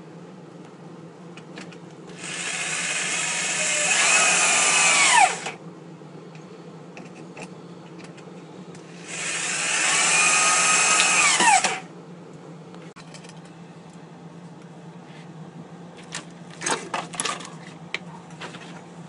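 Power drill working into the wooden roof of a small birdhouse in two runs of about three seconds each, each one winding down in pitch as the trigger is released. A few clicks and knocks follow near the end.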